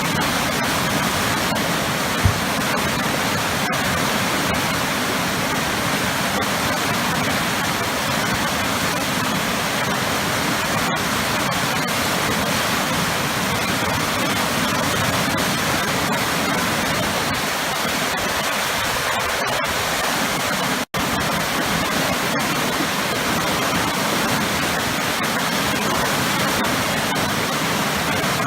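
Powerful waterfall cascading into heavy churning water: a steady, full rushing roar. The sound drops out for an instant about two-thirds of the way through.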